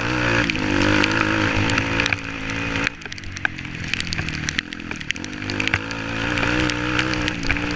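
Small dirt bike engine running, its pitch rising and falling as the throttle is worked, with scattered clicks and knocks over it.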